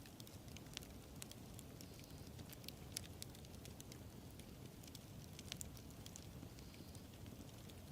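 A wood bonfire burning quietly: a low steady rush of flame dotted with frequent small crackles and pops from the burning wood, a sharper pop about 3 seconds in and another about 5.5 seconds in.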